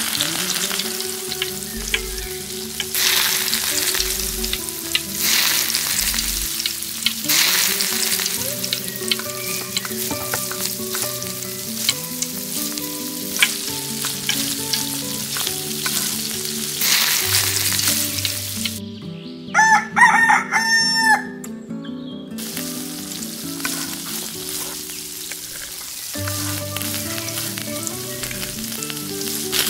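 Oil sizzling as food fries in a small pan, with stirring. A rooster crows about twenty seconds in.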